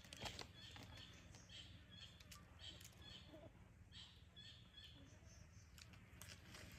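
Near silence: faint outdoor ambience with a scattering of soft, short high chirps.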